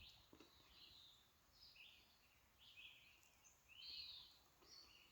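Faint birdsong: short, high chirping notes repeated about once a second.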